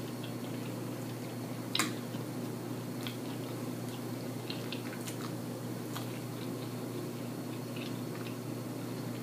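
A person chewing naan and curry with open-mouthed smacking and small wet clicks, with one sharper click about two seconds in, over a steady low hum.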